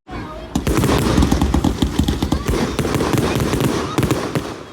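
Fireworks going off in a dense barrage: rapid overlapping crackles and bangs that build about half a second in and ease off near the end.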